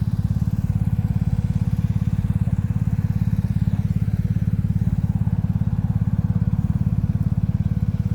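A running engine close by: a low, fast, even pulsing drone with a faint steady whine above it.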